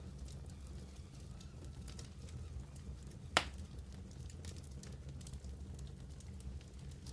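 Wood fire in a fireplace burning with a low, steady rumble and scattered small crackles, and one sharp, loud pop about three and a half seconds in.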